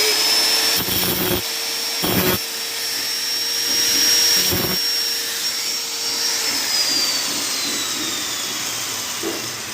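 Small high-speed electric motor running with a steady high whine, with three brief rougher noisy bursts. About six seconds in, the pitch starts falling steadily as the motor winds down after being switched off.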